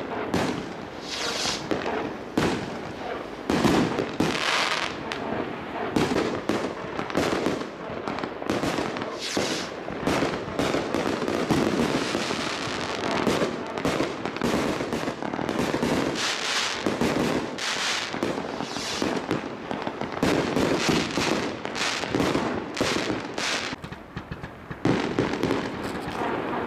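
Fireworks going off in quick succession: many sharp bangs and crackles overlapping with no real break, easing briefly a couple of seconds before the end.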